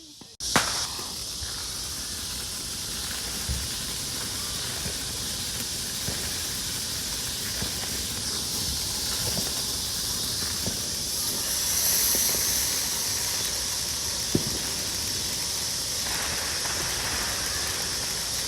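Ground fountain firework hissing steadily as it throws sparks, with a few sharp pops.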